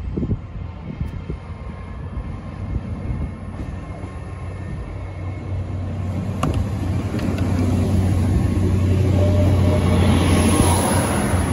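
GWR Hitachi Intercity Express Train (bi-mode, running on its underfloor diesel engines) approaching and running along the platform. A steady low hum and the rush of wheels and coaches grow louder from about five seconds in as it draws level, with one sharp click midway.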